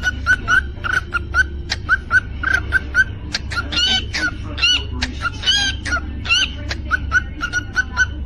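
Cockatiel chirping rapidly, several short notes a second, with a few longer warbled whistles in the middle. A steady low hum runs underneath.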